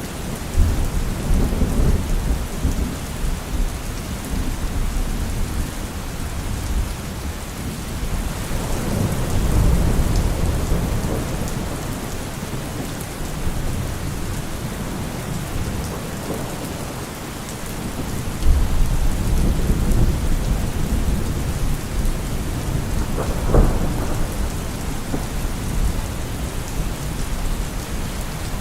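Steady rain falling on trees and leaves, with deep rumbles of distant thunder swelling and fading about three times.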